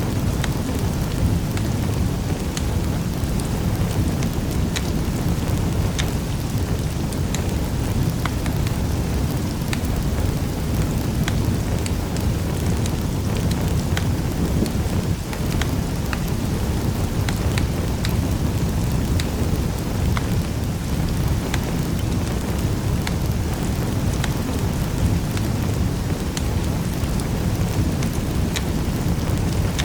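Wood fire burning in a fireplace: a steady low rumble of flames with many short, sharp crackles and pops scattered throughout.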